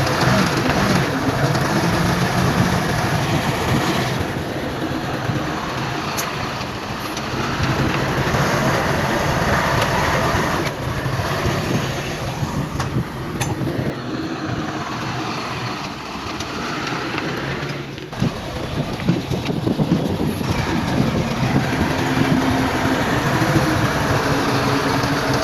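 Heavy diesel earthmoving machinery working: a steady engine noise that dips and swells, with a few sharp knocks along the way.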